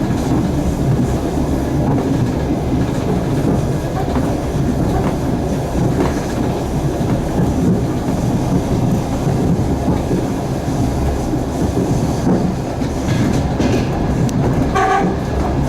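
Passenger train heard from one of its own cars, wheels running on the rails: a steady rumble with scattered clicks over the rail joints. A brief pitched squeal sounds near the end.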